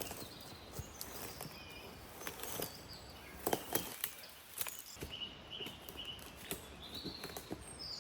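Quiet outdoor ambience: scattered light taps and clicks, with a few short, high bird chirps in the second half.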